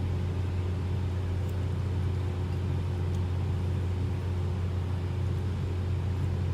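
Steady low hum with no change in level, the background drone of the room.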